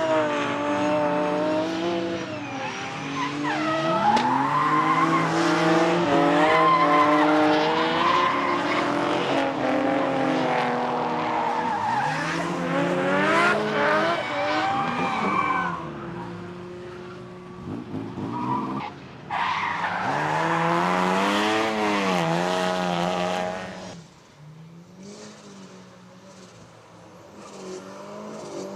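Drift cars sliding past, engines revving up and down under tyre squeal. The sound drops away about four-fifths of the way through and stays quieter to the end.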